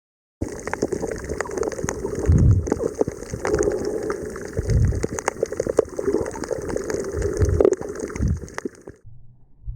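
Water bubbling and gurgling, with many sharp crackling clicks and a few low rumbling surges; it starts abruptly about half a second in and cuts off about nine seconds in.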